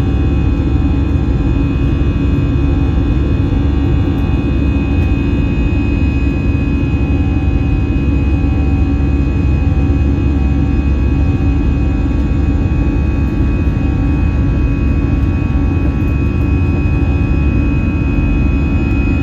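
Steady jet engine drone and airflow noise heard inside the cabin of an Airbus A320-200 in flight: a constant low rumble with a few thin steady whining tones over it.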